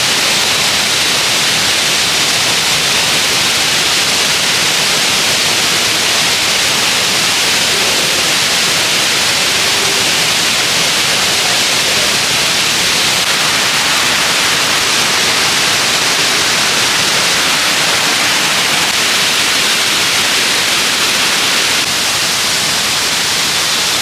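Steady rush of a waterfall: a loud, even hiss of falling water with no breaks.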